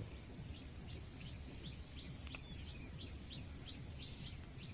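A bird chirping in the background: a faint, even series of short high chirps, about three a second, over a low background hum.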